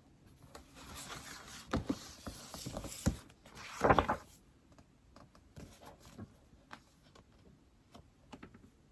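Rustling and handling noise at a desk for about four seconds, ending in a louder bump near four seconds in, then scattered light taps of typing on an iPad.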